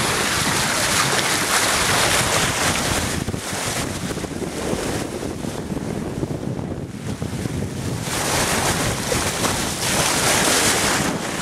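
Wind buffeting the microphone aboard a sailboat under way, with water rushing along the hull. It comes in gusts, loudest at the start and again about eight seconds in.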